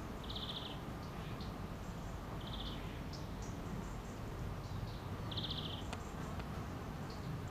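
Three short, buzzy insect trills about two and a half seconds apart, each lasting about half a second, over a steady low outdoor rumble with a few faint high bird chirps.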